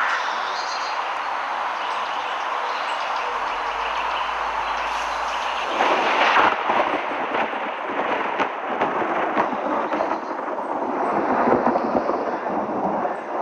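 Heavy rain in a storm, a steady rushing hiss; about six seconds in it grows louder and rougher, with many sharp taps.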